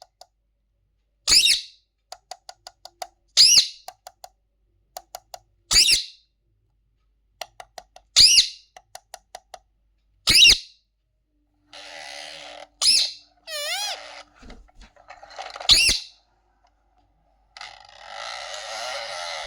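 Pet parrot giving loud, sharp squawks about every two seconds, with quick runs of short clicks between them. In the second half, stretches of harsh rasping noise sound between the calls.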